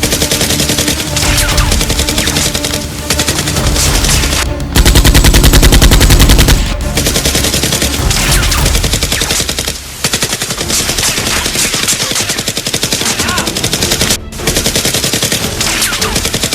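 Long bursts of rapid automatic gunfire, with a few short pauses; the loudest burst lasts about two seconds near the middle. Background music plays under it.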